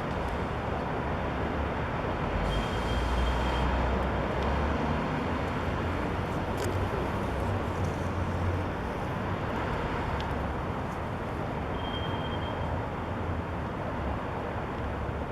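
Steady city traffic noise, with a deeper rumble that swells about two seconds in and eases off after about eight seconds. Two short high tones sound, about three and twelve seconds in.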